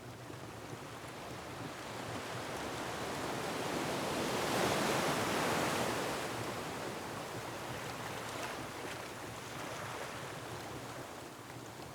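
Ocean surf: a wave washes in, swelling to a loud crash about halfway through and then slowly receding into a steady hiss. Faint crackles of a wood fire sound underneath.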